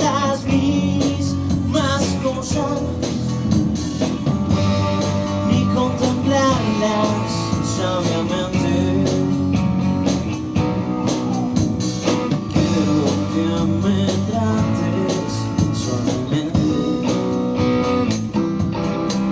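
Rock band playing an instrumental passage: a guitar line over bass and a drum kit keeping a steady beat on the cymbals.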